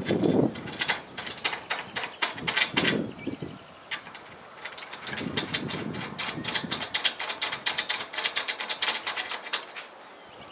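Mechanical clicking from hand-tool work: runs of quick sharp clicks, densest in the second half, mixed with a few dull knocks.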